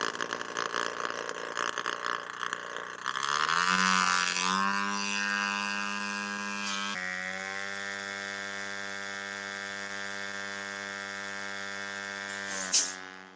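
Stinger missile launcher hissing for a few seconds, then a whine that rises in pitch over about a second and holds as a steady tone, stepping up slightly partway through. A single sharp crack comes near the end, and the tone stops after it.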